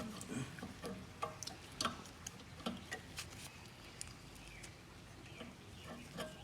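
Faint, irregular light clicks and taps of a lawnmower carburetor being handled and fitted into place, its linkage lever being worked through a hole.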